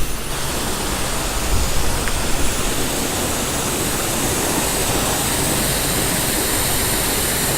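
Self-serve car-wash pressure-washer wand spraying water in a steady hiss.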